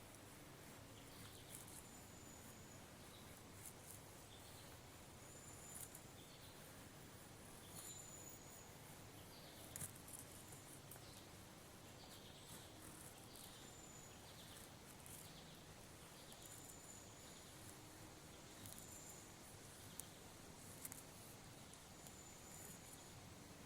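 Faint woodland ambience: small birds calling, a high thin note repeated every two to three seconds over short chirps, with scattered light clicks.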